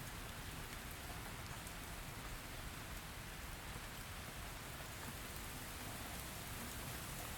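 Steady rain falling, with an even hiss and scattered small drop ticks.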